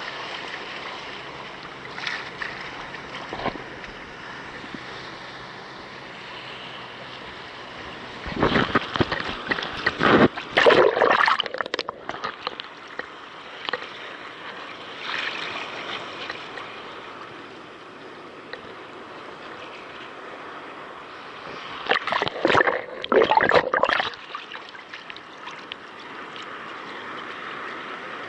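Water sloshing and gurgling against a kayak's hull as waves pass under it, with two louder spells of splashing, about a third of the way in and again near the end.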